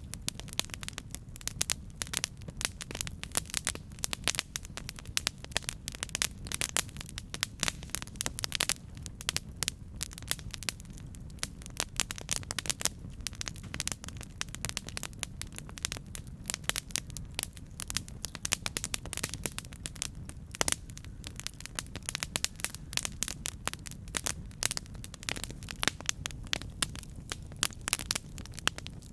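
Campfire burning, wood crackling and popping in dense, irregular snaps over a low steady rumble of the flames.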